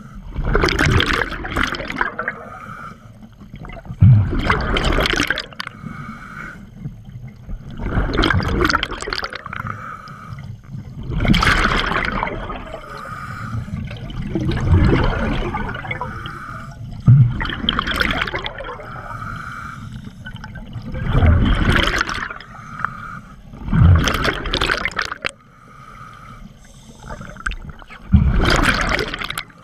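Scuba diver breathing through a regulator underwater. A hissing inhale alternates with a loud gush of exhaled bubbles, about every three to four seconds.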